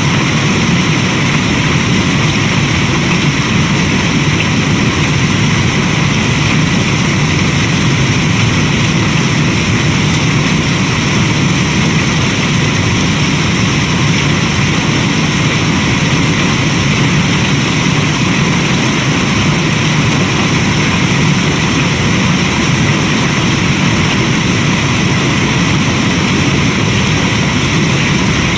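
Steady rain ambience mixed with a crackling wood fire, an even, unbroken noise.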